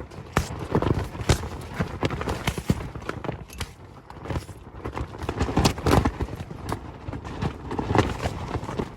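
Tent and poncho fabric flapping and snapping hard in gale-force wind, a rapid irregular run of sharp cracks over the rush of the wind.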